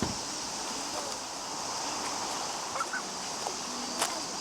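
Steady rushing of a mountain stream, with a short thump at the start, a couple of brief squeaks about two thirds of the way in and a sharp click near the end.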